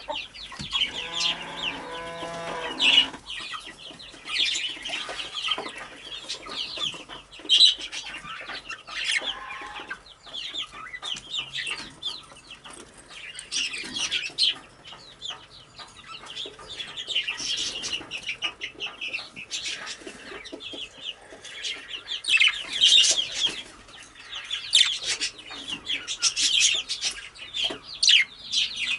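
A flock of budgerigars chattering and warbling, with fast, overlapping high chirps and squawks from several birds at once.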